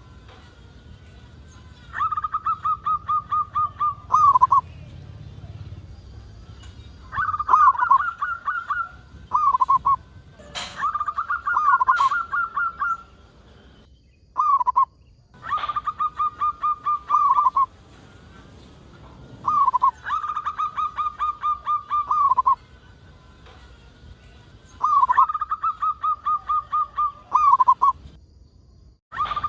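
Zebra dove (perkutut) singing a repeated cooing phrase. Each phrase is a rapid run of pulsed notes lasting about two seconds that ends on a lower note, and it comes again every few seconds.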